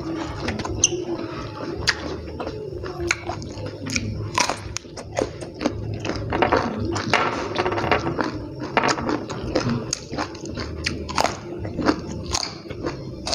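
Close-up eating sounds: chewing with lip smacks and sharp crunches from biting raw vegetables.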